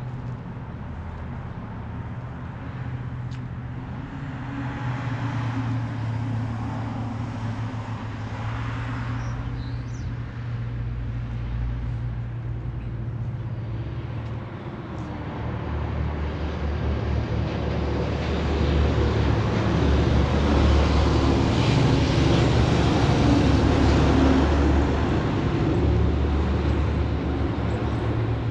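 A motor vehicle engine running steadily, getting louder about two-thirds of the way through and easing off near the end, over road traffic noise.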